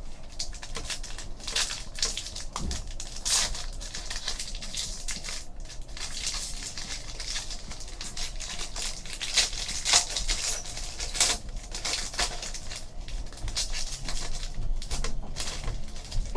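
Trading card packs being torn open and their wrappers crinkled, with cards handled and slid against each other: a rapid, uneven run of crackles and clicks.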